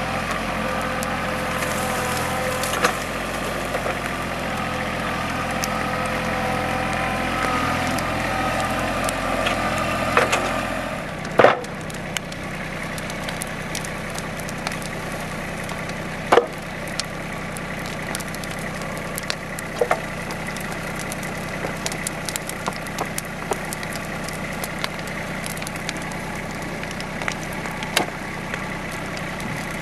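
A compact tractor's engine runs steadily for the first third, over burning timber that crackles and snaps. About eleven seconds in there is a loud crack and the engine sound drops away. After that the bonfire of fallen trees goes on crackling with scattered sharp pops.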